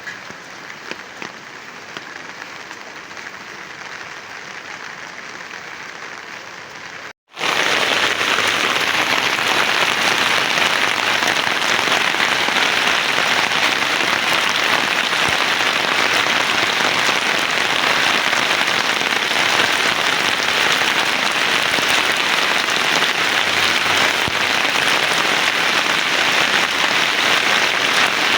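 Rain falling: lighter for the first seven seconds or so, with scattered sharp drop taps, then after a brief cut a heavy, steady downpour, much louder.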